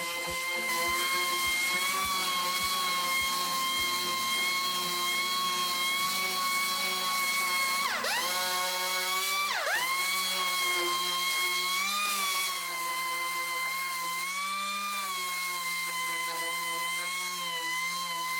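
Handheld electric drill motor running with a steady high whine. About eight seconds in, and again a second and a half later, its pitch drops sharply and climbs back.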